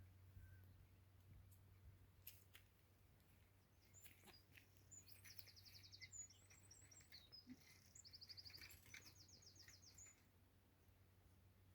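Faint songbird song: scattered high chirps and two quick trills of rapidly repeated high notes, over a low steady hum.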